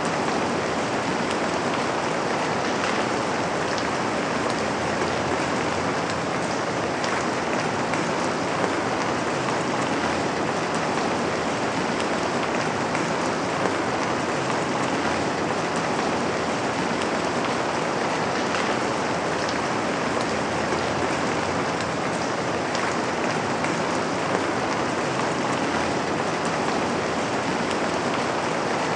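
Steady rain falling on a window, a constant hiss of drops with a few sharper ticks now and then.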